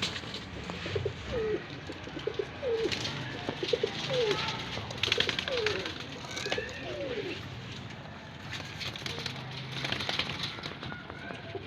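Domestic pigeons cooing: a run of short, gliding coos repeated over about six seconds, with bouts of scratchy rustling in between.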